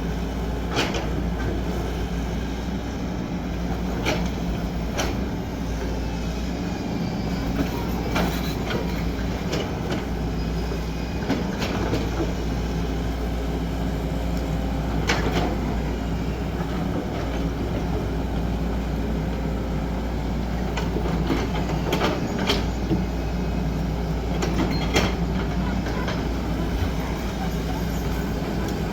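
XCMG 75 excavator's diesel engine running steadily while working, with sharp metallic clanks and knocks every few seconds.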